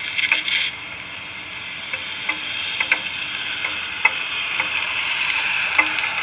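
Steady rain hiss heard through a railcam's outdoor microphone in a thunderstorm, with scattered sharp crackles and clicks, growing slowly louder.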